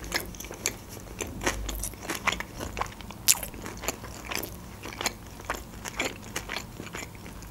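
Close-miked chewing of a mouthful of sushi roll: a string of irregular wet mouth clicks and crunches.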